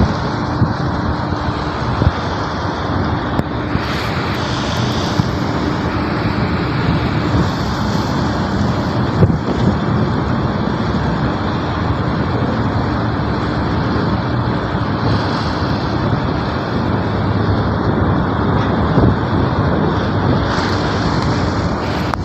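Strong wind blowing on the microphone: a loud, steady rushing noise with a few brief gusts and a faint steady hum beneath it.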